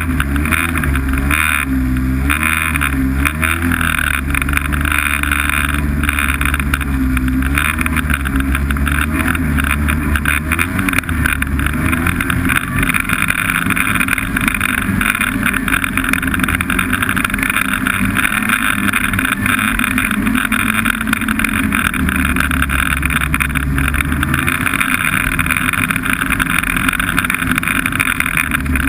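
Snowmobile engine running under way, loud and continuous, its pitch wavering up and down over the first ten seconds or so before settling into a steady drone.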